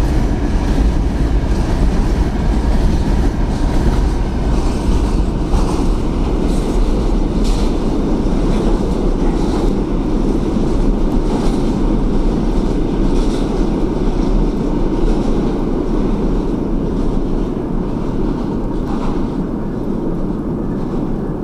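A train rolling past on the rails: a steady heavy rumble of wheels on track with scattered clicks over the rail joints, easing off slightly near the end.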